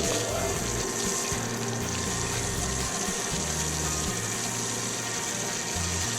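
A steady rushing hiss like jetting or spraying water, starting suddenly and running over background music with a bass line.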